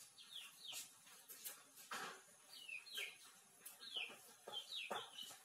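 Faint bird chirping: a quick run of short, high chirps, each falling in pitch, repeating several times a second, with a few soft knocks among them.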